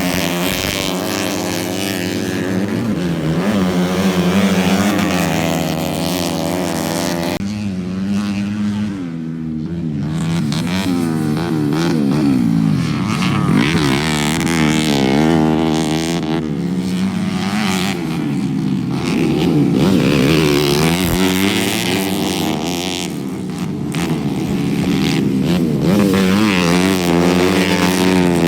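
Motocross bikes racing, their engines revving up and down again and again with gear changes, sometimes more than one engine at once.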